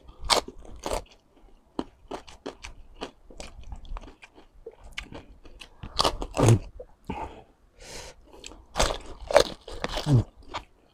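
Close-up crunching and chewing of crispy deep-fried pork skin, a quick run of sharp crunches bite after bite, some of them louder.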